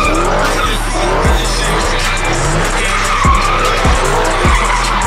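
A car's tires squealing in a long, wavering screech, over music with a heavy, evenly spaced bass beat.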